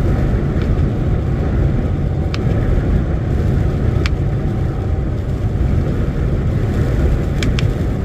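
Steady low engine and road rumble inside a lorry's cab while it drives along, with a few faint clicks.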